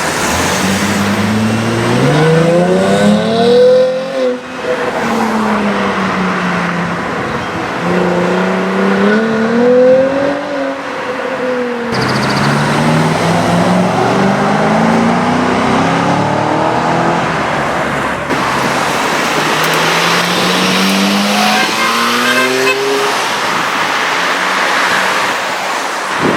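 High-performance car engine accelerating hard, its revs climbing and dropping again and again as it pulls away and shifts, in several short takes.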